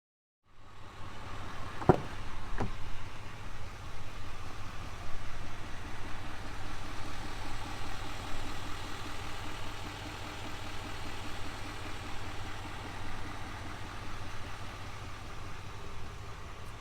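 2020 GMC Sierra 2500HD's 6.6-liter turbodiesel V8 idling steadily, with two sharp clicks about two seconds in.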